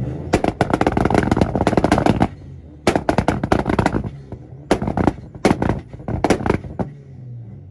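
A Volkswagen's exhaust banging rapidly while the engine sits on a two-step launch limiter: two strings of fast, loud pops lasting about two seconds and one second, then several short bursts in the second half.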